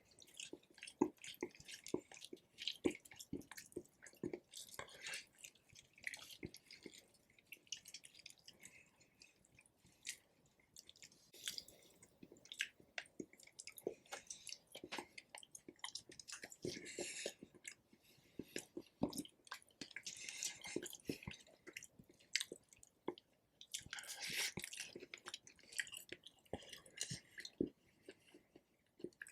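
Close-miked chewing of rotisserie chicken: a steady run of soft, wet smacks and clicks of the mouth, with small squishy sounds.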